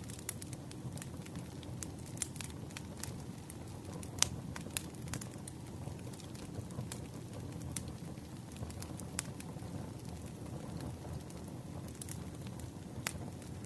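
Campfire crackling: irregular sharp pops and snaps from burning wood over a steady low rumble of flame, with one louder pop about four seconds in.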